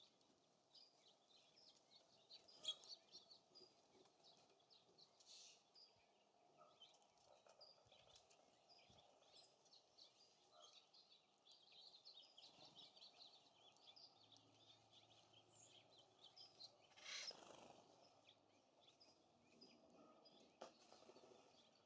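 Faint chirps and twitters of small songbirds at a feeder over light wind noise, with one louder harsh sound sweeping down in pitch about three quarters of the way through.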